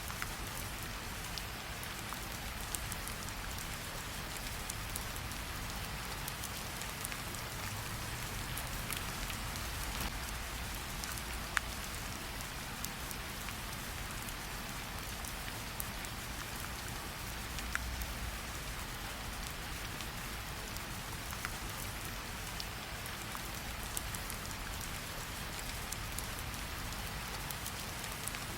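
Steady rain hissing, with a low rumble underneath and a campfire crackling: scattered sharp pops stand out, the loudest about a third of the way in and another a little past halfway.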